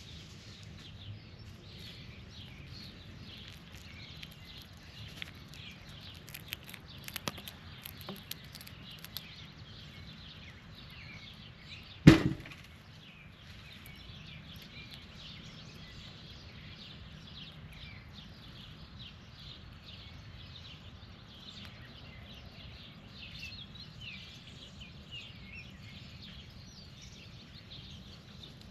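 Birds chirping steadily in the background, with a few light clicks and one loud, sharp knock about twelve seconds in.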